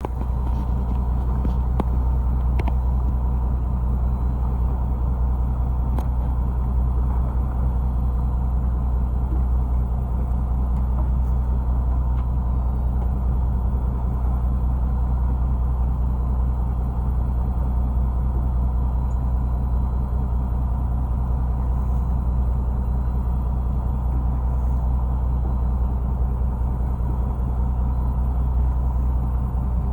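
Fishing boat's engine running with a steady low drone, with a few faint clicks in the first few seconds.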